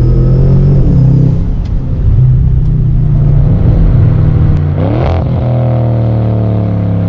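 Audi S6's 4-litre twin-turbo V8 running loud with an uneven, burbling note, then a quick rev that rises and falls about five seconds in, after which it settles into a steady drone.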